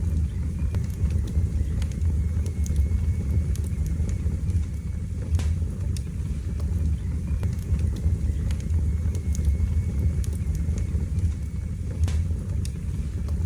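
Wood fire burning in a fireplace: a steady low rumble of flame with scattered sharp crackles and pops, the clearest about five seconds in.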